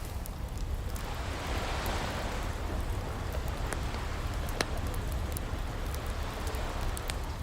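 Ocean waves washing in and out over a steady low rumble, with a wood fire crackling in short sharp pops; one pop about halfway through is louder than the rest.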